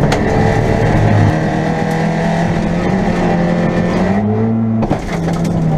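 Rally car engine pulling hard, heard from inside the cabin. Its pitch climbs about four seconds in, then drops suddenly at about five seconds with a click, as on a gear change.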